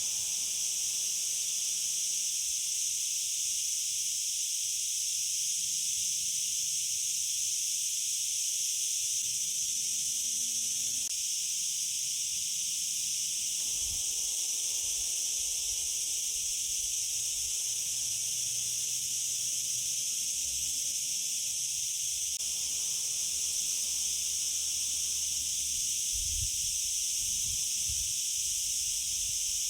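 Steady, high-pitched chorus of forest insects, an unbroken shrill hiss with no pauses, with a few faint low rumbles underneath.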